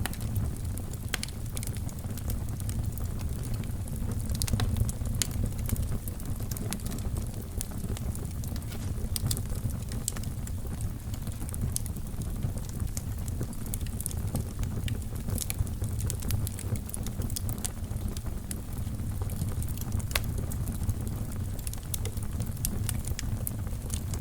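Fire burning in a fireplace: a steady low rumble of flames with frequent, irregular crackles and sharp pops.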